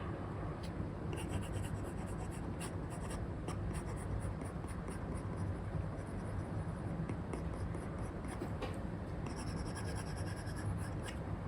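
Apple Pencil with an Elecom replacement nib drawing on an iPad's paper-like screen protector: quick scratchy pen strokes in clusters, over a steady low hum.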